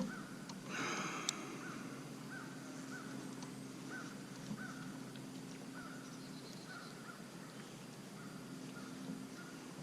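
A bird calling over and over in short calls, about two a second, with a brief noise about a second in.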